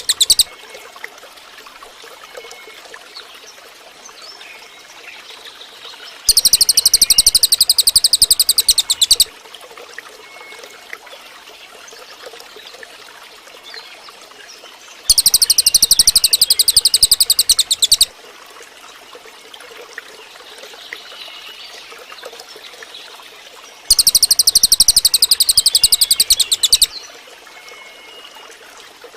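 A cililin songbird giving three loud, rapid, high-pitched trills, each lasting about three seconds and spaced about nine seconds apart, with faint chirps from other birds and a low steady hiss between them.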